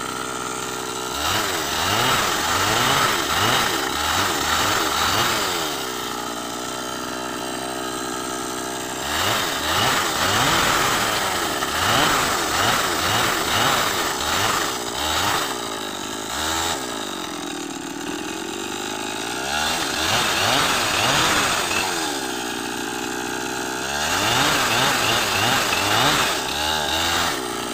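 Chainsaw engine revving up to cut and dropping back to idle, four times over, with its pitch sweeping up and down.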